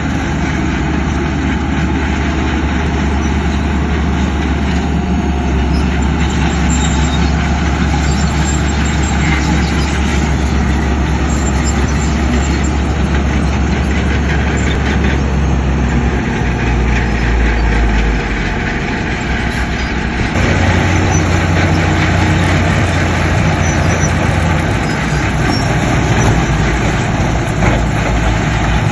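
Heavy diesel engine of earthmoving machinery running steadily. Its low note changes a little past the middle and again about two-thirds through, as the engine changes speed.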